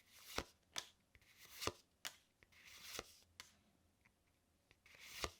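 Pokémon trading cards being slid off the stack one at a time, each a soft swish ending in a light snap, at an uneven pace with a short pause in the middle.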